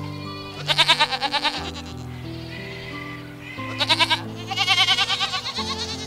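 Goats bleating in quavering, wavering calls: one bleat about a second in, then two more close together later on. Background music with long held chords plays underneath.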